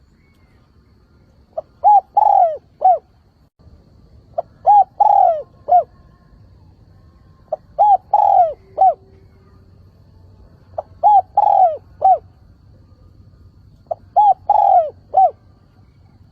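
Spotted dove cooing its crowing call five times, a phrase about every three seconds: a short lead note, then a few arching coos with the middle one longest.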